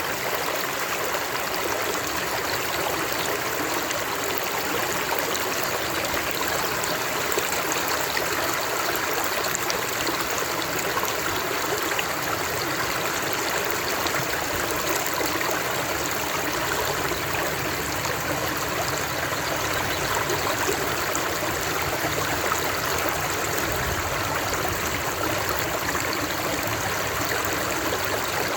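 Flowing water running steadily over stones, an even rushing and trickling with no breaks.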